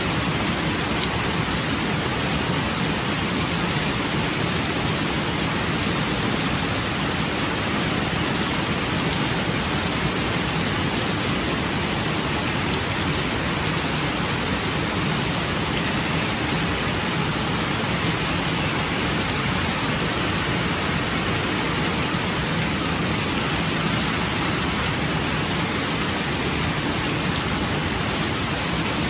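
Steady rain falling: an even, unbroken hiss with no distinct drops or thunder standing out.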